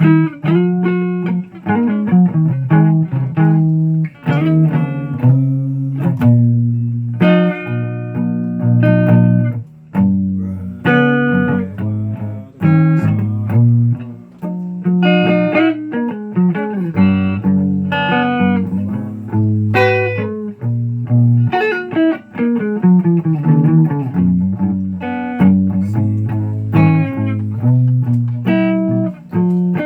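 Guitar playing a run of plucked notes and chords over low bass notes, each note struck and left to ring.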